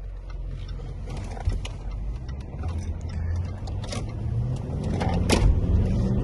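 Land Rover Discovery 4's 4.4 TDV8 diesel engine running during its break-in, its pitch and level climbing over the last few seconds as the revs rise. A few sharp clicks cut through, one loud click about five seconds in.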